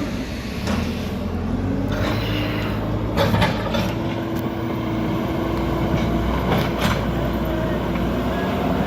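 Backhoe loader's diesel engine running steadily, its pitch shifting a little as it works, with a few sharp knocks about three seconds in and again near seven seconds.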